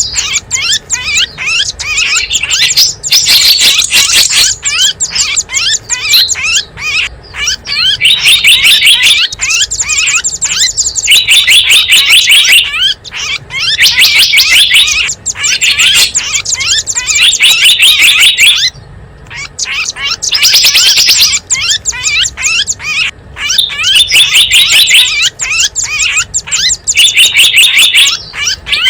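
Bird-lure recording of small wild birds: loud bursts of rapid, high chirping trills, each a second or two long, repeating over and over with a brief pause about two-thirds of the way in.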